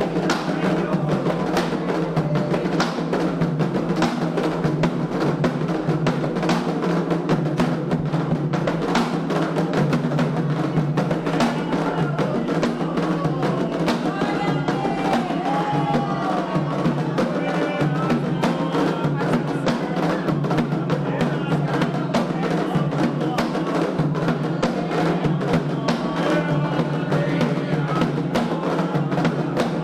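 Candomblé ritual drumming on atabaque hand drums in a fast, steady rhythm, with voices singing in the middle.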